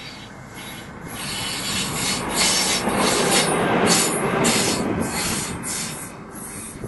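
Freight train hauled by a DB class 294 diesel locomotive passing close by, the wagon wheels rubbing and grinding on the rails. It swells to its loudest in the middle, with a scraping pulse about twice a second.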